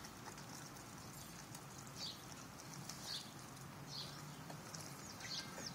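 Faint, short, high-pitched bird chirps repeating about once a second, each dropping quickly in pitch.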